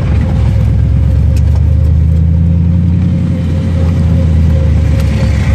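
Turbocharged Ford Mustang drift car's engine idling steadily, heard from inside the caged cabin, with a thin steady whine over the low hum.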